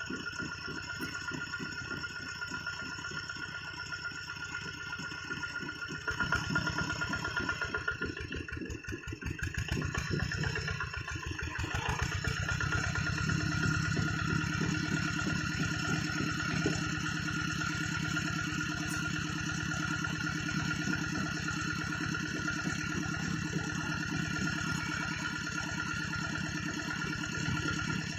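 Two-wheel hand tractor's engine running with an even, rapid chugging beat, getting louder about six seconds in and again about twelve seconds in.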